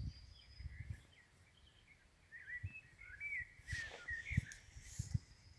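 Birds singing in short chirping phrases, busier from about two seconds in, over a few low thumps on the microphone.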